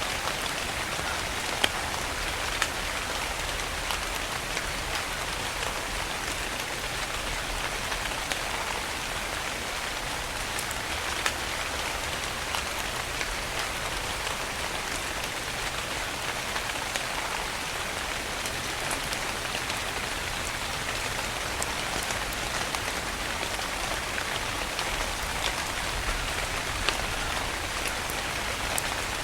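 Steady rain falling on a surface, a constant hiss with scattered sharper drop ticks.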